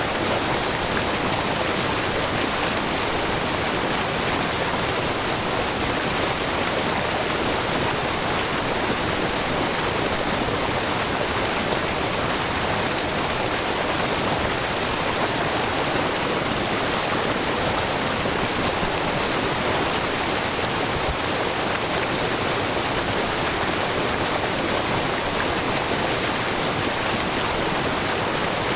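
Shiraito Falls, a low, wide curtain of spring water pouring off a rock face, giving a steady, even rush of splashing water that never changes.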